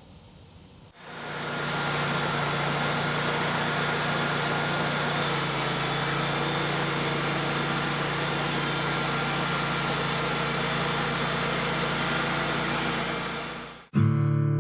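An engine running steadily at constant speed. It comes up about a second in and cuts off abruptly just before the end, where strummed acoustic guitar music starts.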